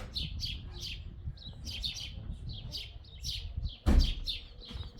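Small birds chirping continuously, a rapid run of short falling chirps several times a second. About four seconds in there is one loud thump.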